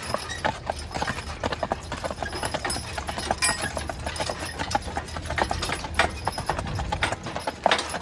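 Hooves of a team of draft horses clip-clopping on pavement at a walk, in an irregular run of sharp strikes over a steady low rumble.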